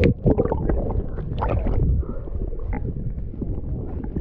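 Kayak on the water: paddle splashes and water sloshing against the hull, with a few sharp knocks in the first two seconds over a steady low rumble.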